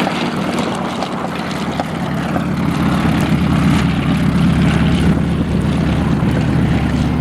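Propeller-driven model airplane's engine running close by, a steady low drone that grows a little louder partway through and drops away at the very end.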